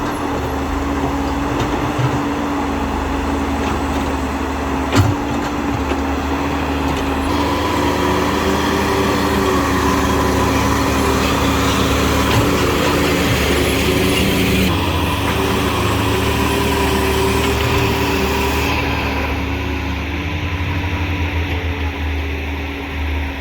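Huina 1592 RC excavator running with a steady mechanical hum. A second, higher whine comes and goes in the middle as it works, and there is a sharp click about five seconds in.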